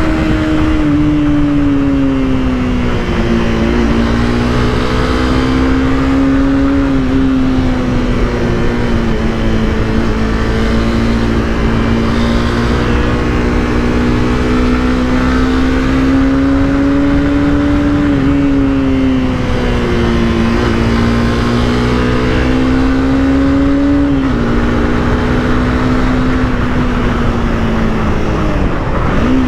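Honda CBR300R's single-cylinder engine running under way. Its pitch climbs slowly and drops sharply about six times through the stretch, with a steady rush of road noise underneath.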